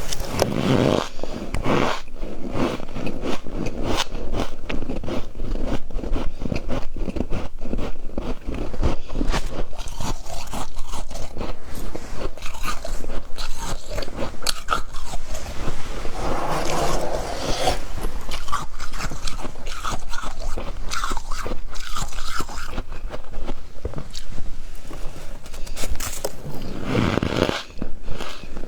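Humidifier ice crunching and squeaking as it is bitten and chewed in big bites, a dense run of crackling crunches with a brief pause near the end.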